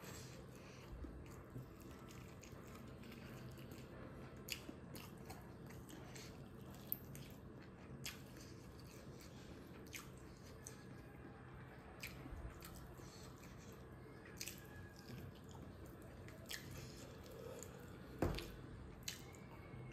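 Close-up eating sounds of a man eating smoked pork and rice by hand: faint chewing with scattered short clicks and smacks, and one sharper click near the end.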